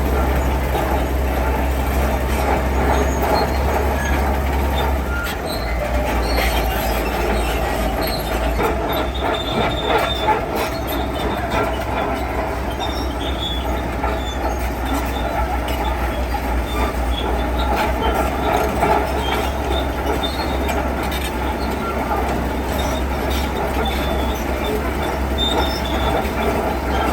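Heavy construction machinery at work: a steady deep diesel rumble with scattered high metallic squeals and clanks.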